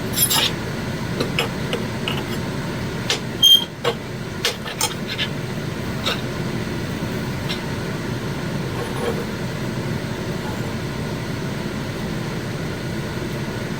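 A steady mechanical hum runs throughout, with a few short clicks and knocks in the first several seconds, the loudest about three and a half seconds in.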